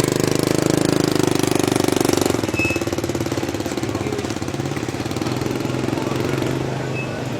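A small engine running close by with a rapid, even chugging beat. It is loudest for the first two seconds, then settles a little lower and keeps running steadily.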